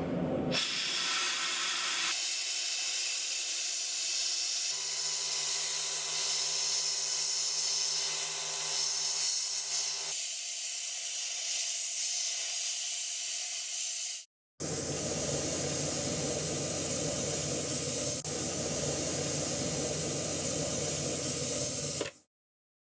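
Compressed air hissing steadily in several spliced stretches, each starting and stopping abruptly. A steady hum runs under it for a few seconds in the middle.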